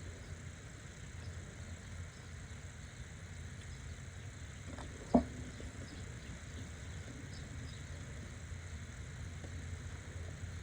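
Steady low background rumble with one sharp knock about halfway through.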